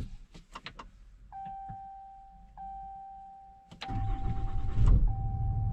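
A few clicks, then a dashboard warning chime dinging about every second and a quarter. About four seconds in, the truck's 6.7-litre Cummins inline-six diesel cranks and starts, then runs at a steady idle under the chimes.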